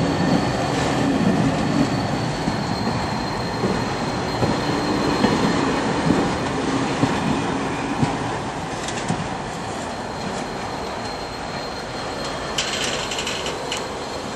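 Empty timber wagons of a freight train rolling past close by, the wheels rumbling and clattering over the rails, with a thin steady high wheel squeal through the first half. A short burst of metallic rattling comes near the end.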